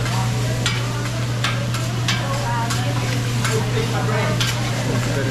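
Fried rice sizzling in butter and soy sauce on a hot cooking surface while a metal spatula stirs it, scraping and clacking at irregular moments. A steady low hum runs underneath.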